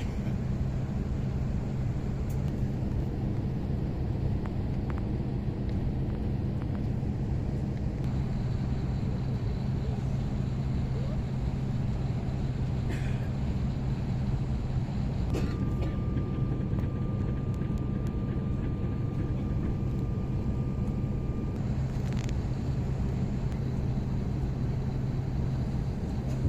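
Steady low drone inside a parked airliner's cabin, with a faint thin steady tone joining about halfway through for several seconds.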